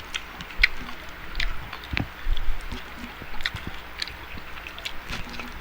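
Close-miked eating sounds: a person chewing a mouthful of spaghetti, with many short, wet mouth clicks and smacks.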